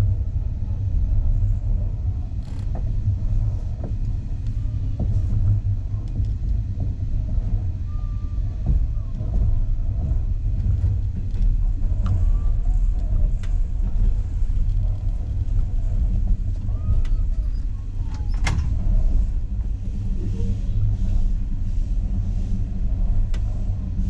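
Moving passenger train heard from inside the carriage: a steady low rumble of wheels on track, with scattered sharp clicks, the loudest about eighteen seconds in, and brief short squeaks and creaks.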